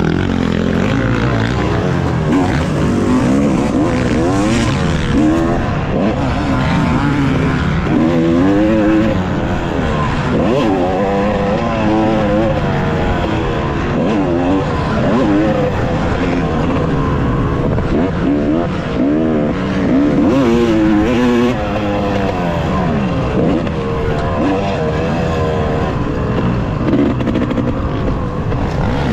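Two-stroke 2018 Yamaha YZ250X dirt bike engine being ridden around a motocross track, revving up and down over and over, its pitch rising and falling every second or two as the throttle opens and closes.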